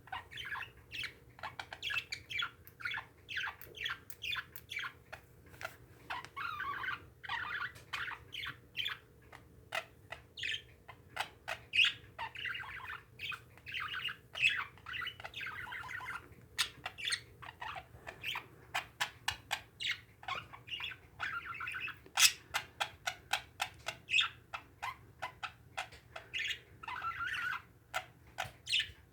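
Pet parakeets chattering: a steady stream of quick chirps, warbles and short squawks.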